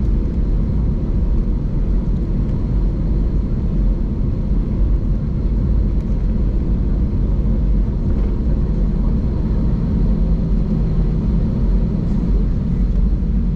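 Airbus A320-200 cabin noise after landing: a steady low rumble of the engines and airframe heard from inside the cabin, with a faint steady high whine above it.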